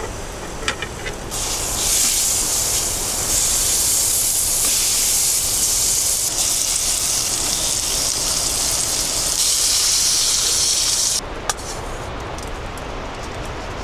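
Food frying in a hot pan: a steady, loud sizzle that starts about a second in and stops abruptly near the end.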